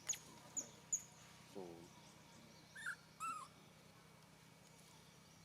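A baby monkey crying: a falling whimper about a second and a half in, then two short high squeals around three seconds, after a few sharp high chirps in the first second.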